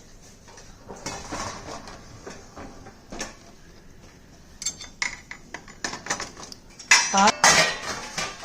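Washed dishes and cutlery clinking and clattering as the dishwasher racks are handled, a scatter of knocks with the loudest clatter of ringing knocks near the end.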